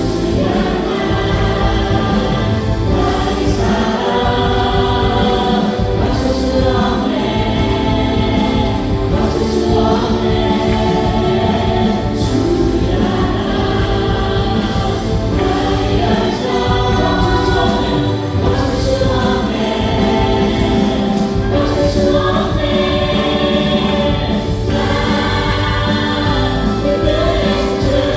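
Contemporary worship music: a praise band of keyboards, synthesizer, electric guitar, bass and drums playing under many voices singing together, the team's vocalists with the congregation.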